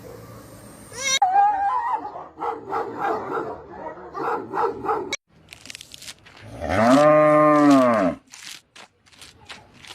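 Animal calls: about four seconds of short, repeated calls, then one long call that rises and falls in pitch, followed by a few clicks.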